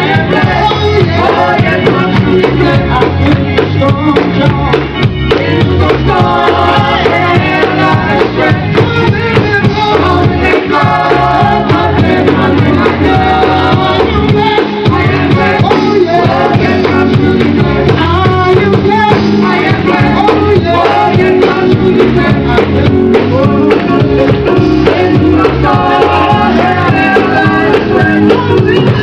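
Live gospel music: a group of singers in harmony over a band with steady bass and a regular drum beat.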